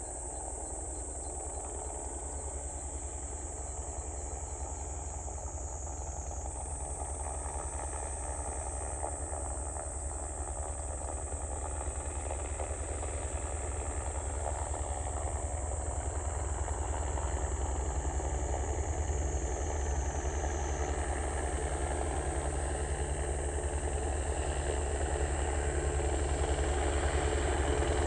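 Crop-spraying helicopter's rotor and engine, a steady low beating that grows gradually louder as the helicopter approaches.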